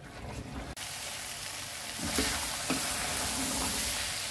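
Soaked black chickpeas frying in masala and mustard oil in a pressure-cooker pot, sizzling steadily as they are stirred. The sizzle comes in suddenly just under a second in, and two light knocks sound a little after two seconds in.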